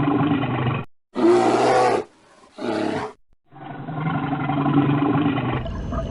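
Deep, drawn-out animal roars lasting about two seconds each, with shorter calls of a different animal spliced in between; the sound breaks off abruptly between calls.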